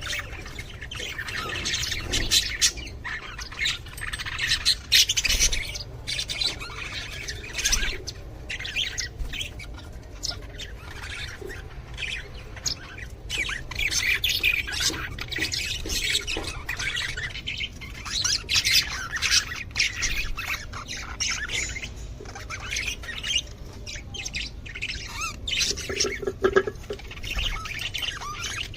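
A colony of budgerigars chattering and squawking, many birds calling over one another in a continuous stream of short, sharp calls.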